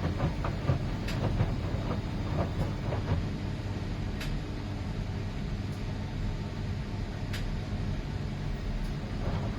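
2011 Miele PW 6080 commercial washing machine running, with a steady low hum and scattered short clicks and knocks from the turning drum.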